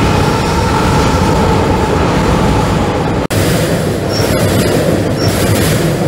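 Norfolk Southern train crossing the steel deck-truss railroad trestle directly overhead: a loud, steady rumble of wheels and cars on the bridge, with faint wheel squeal. The sound drops out for an instant about halfway through.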